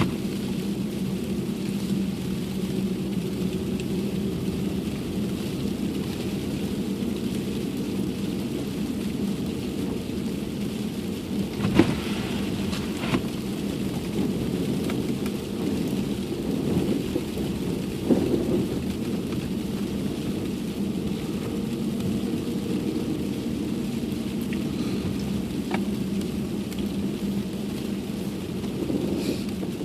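Car cabin noise while driving on a snowy road: a steady low rumble with a hum, and a few sharp knocks about twelve, thirteen and eighteen seconds in.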